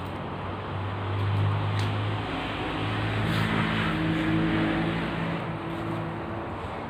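Modenas Kriss 110 single-cylinder four-stroke engine running through an aftermarket Apido exhaust with a small outlet, on an otherwise stock bike. It idles and is revved gently a couple of times, the pitch stepping up and settling back.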